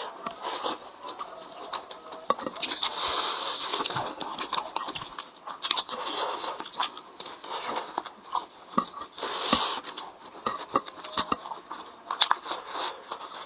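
Close-up mukbang eating sounds: a person biting and chewing sauced chicken with irregular wet smacks and crunches.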